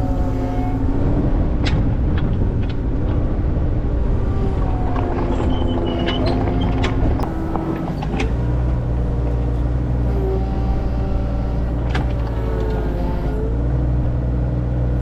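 A motor vehicle's engine running as it drives, its pitch shifting up and down a little, with intermittent knocks and rattles.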